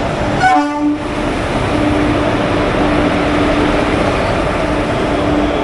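Passenger train moving on the track: a steady rushing rumble, with a low steady hum that drops out and comes back several times.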